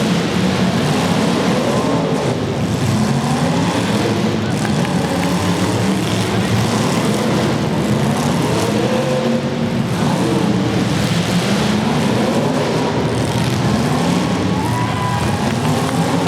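Several demolition derby car engines running and revving at once, their pitches rising and falling over one another.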